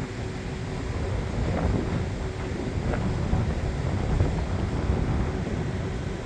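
Wind buffeting the microphone, a gusty low rumble, with a faint steady hum underneath.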